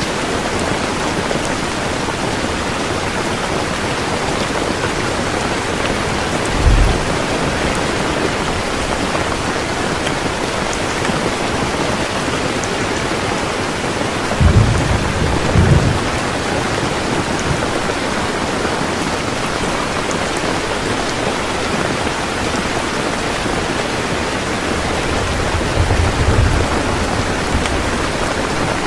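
Heavy rain falling steadily, with three short low rumbles of thunder, the longest about halfway through.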